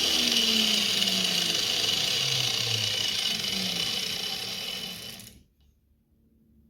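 Angle grinder running in a homemade sliding stand, its motor pitch sinking slowly. The sound cuts off abruptly about five seconds in.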